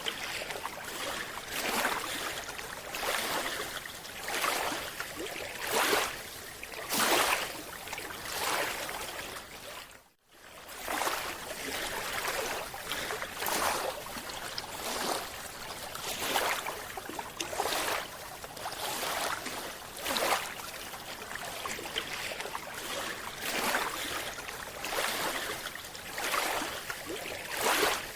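Underwater sound of a scuba diver breathing through a regulator: repeated bursts of exhaled bubbles, one every one to two seconds, with a short dropout about ten seconds in.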